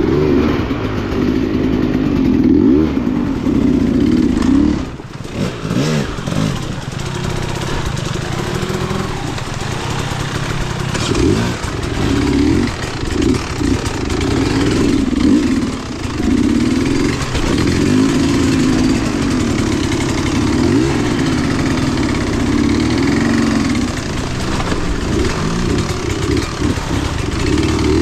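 Off-road vehicle engine running under load, its pitch rising and falling again and again as the throttle is worked, with a brief drop about five seconds in.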